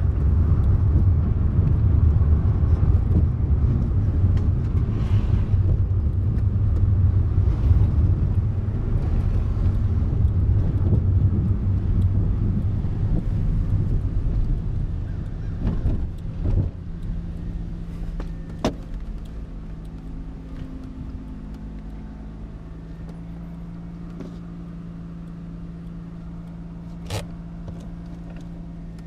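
Twin-turbo 13B rotary engine of a 1992 Mazda RX-7 FD3S heard from inside the cabin, running as the car drives slowly. About halfway through it drops to a quieter, steady idle. A few sharp clicks come in the second half.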